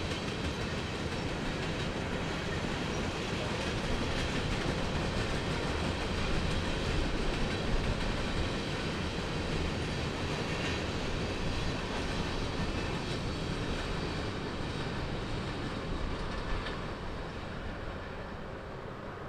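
A train's cars rolling along the rails: a steady rumble and clatter that eases off a little over the last few seconds.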